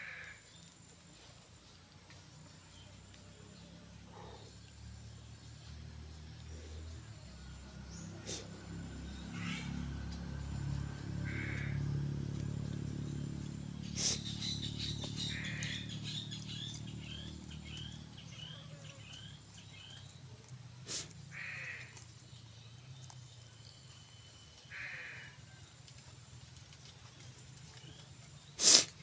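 Outdoor natural ambience: a steady high insect drone throughout, with short bird calls every few seconds. A low rumble swells and fades in the middle, and there is a sharp click near the end.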